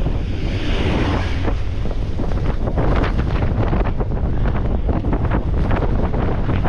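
Wind buffeting the microphone of a camera on a bicycle riding downhill: a loud, steady low rumble, with many small clicks and rattles on top.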